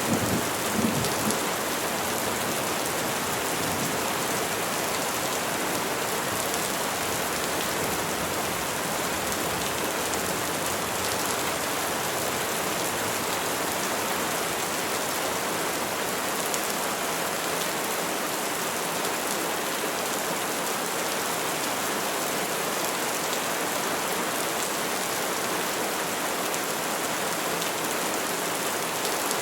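Steady rain falling on trees, an even hiss that holds without change. A low thunder rumble dies away in the first second or so.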